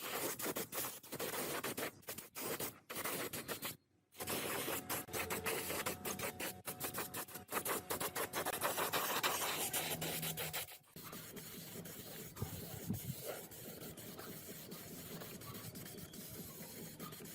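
Hand rasping and scraping on metal in rapid strokes, the kind of filing or sanding used to clean up rusty jack parts. It breaks off abruptly twice, about four seconds in and near eleven seconds, and is quieter after the second break.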